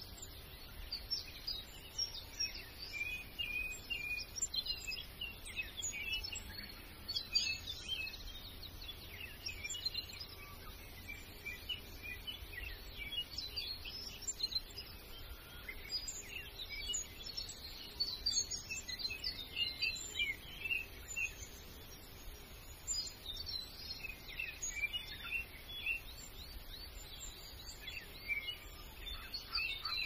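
Small birds chirping, with many short, quick calls overlapping throughout, over a steady low rumble.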